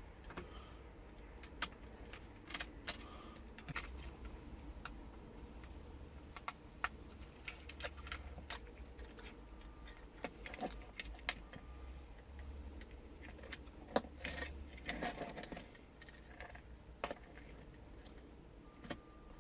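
Scattered light clicks, taps and small rattles of a small plastic radio-control toy tank being handled and opened up, irregular throughout, over a faint steady low hum.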